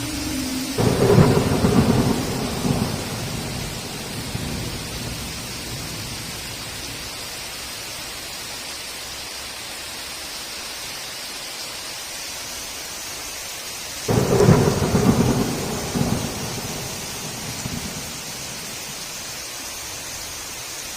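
Heavy rain hissing steadily, with two claps of thunder, one about a second in and one about fourteen seconds in. Each rumbles for a few seconds and fades back into the rain.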